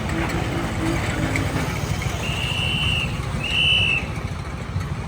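An engine idling steadily, with two short high steady tones a moment apart in the middle.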